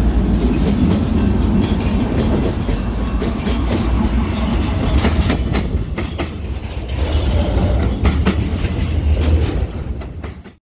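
BNSF freight train passing close by: the diesel locomotives' deep rumble, then the cars rolling past with the wheels clicking over the rail joints. The sound fades out near the end.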